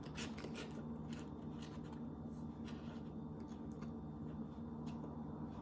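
Light clicks and rustles of hands handling gingerbread pieces, densest in the first second, over a steady low hum.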